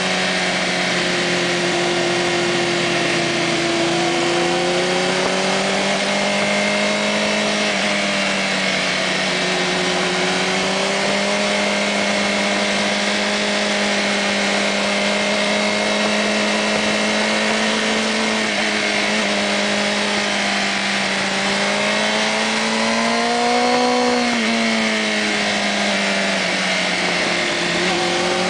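Sport motorcycle's engine heard from on board while riding, its pitch rising and falling with the throttle. Near the three-quarter mark it revs higher and then drops back. A steady rush of wind noise runs underneath.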